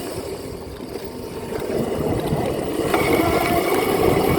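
Dirt bike engine running, easing off early on and picking up again about three seconds in.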